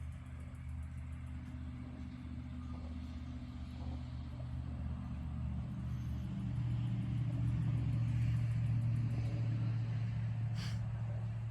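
A motor vehicle's engine running with a low, steady rumble, growing louder over the middle of the stretch and easing off near the end.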